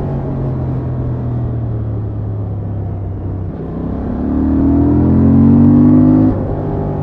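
Honda XL750 Transalp's 755 cc parallel-twin engine on its stock exhaust, running steadily at low revs, then pulling harder with a rising note from about four seconds in. The note cuts off abruptly a little after six seconds as the revs drop.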